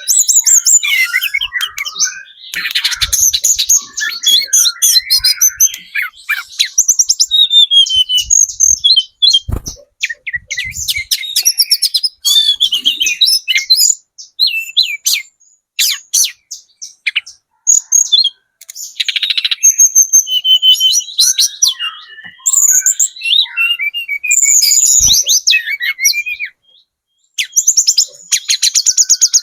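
Young hill blue flycatcher (tledekan gunung) singing in long, fast, high-pitched warbling phrases full of rapid trills, broken by short pauses.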